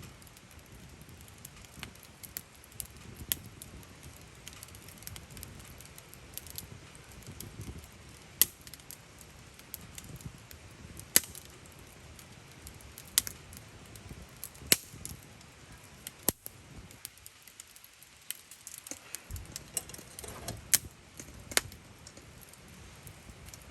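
Wood campfire crackling, with sharp pops at irregular intervals, a dozen or so, over a low steady hiss.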